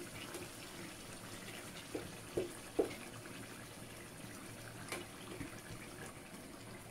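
Faint watery sound of liquid being added to a cooking pan on the stove, with three light clinks of a utensil against the pan about two seconds in and another near five seconds.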